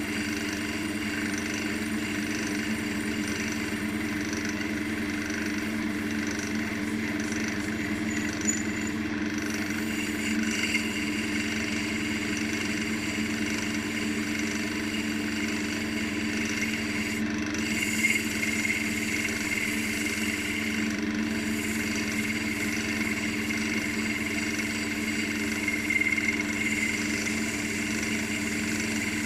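Wood lathe running steadily at reduced speed, about 1000 rpm, its motor giving a steady hum, with a hiss that swells at times as sandpaper is held to the turning elm.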